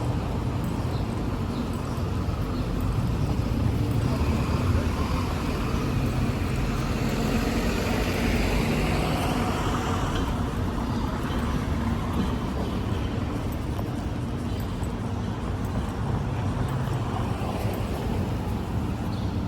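City street traffic: a steady low rumble of vehicles, swelling louder for a few seconds near the middle.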